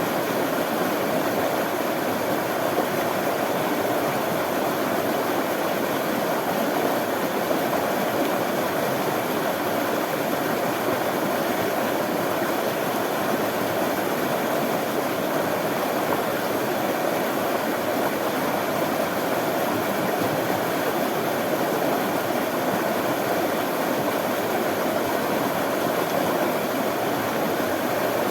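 Running water flowing steadily: an even, unbroken rush with no breaks or single splashes.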